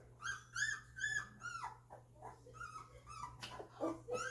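Two-week-old golden retriever puppies whimpering and squealing: a quick run of short, high-pitched cries in the first second and a half, then fainter ones.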